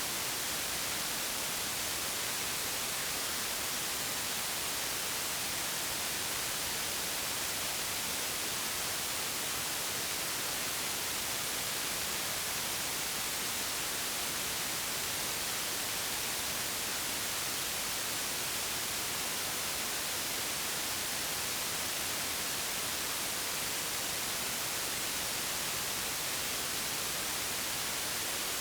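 Steady, unchanging white noise: an even hiss across all frequencies, strongest in the highs, with no breaks or changes.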